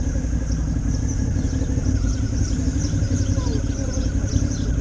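Motorcycle engine running steadily while riding, at an even level with no change in pace.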